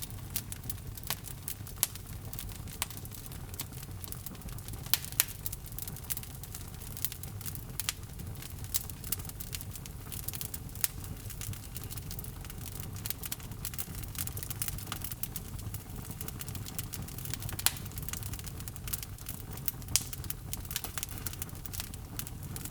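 Log fire burning in a fireplace: a steady low rumble of flames with frequent sharp crackles and pops from the burning logs, irregular and scattered throughout, a few louder pops standing out.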